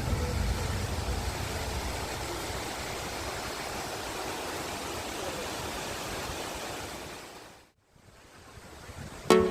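Steady rush of a waterfall, easing off and fading out about three-quarters of the way through, then swelling back briefly. Music cuts in right at the end.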